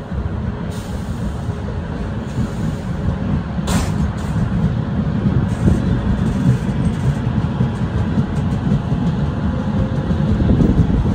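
Passenger train pulling out of a station and gathering speed, heard from aboard: a steady low rumble of wheels and running gear that grows slightly louder, with a single sharp clank about four seconds in.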